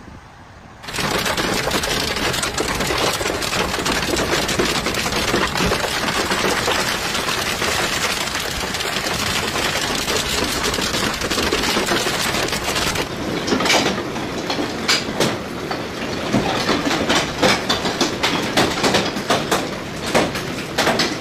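Large hailstones pounding down in a dense, loud clatter of hard hits that starts about a second in. About thirteen seconds in it thins to separate, sharp impacts.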